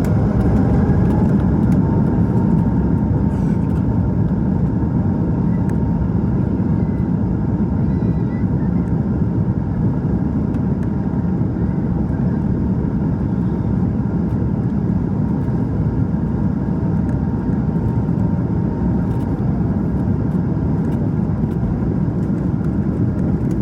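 Steady, loud engine and airflow noise inside the cabin of an Airbus A220-300 in flight, from its Pratt & Whitney PW1500G geared turbofans, with a faint steady whine over it for the first several seconds.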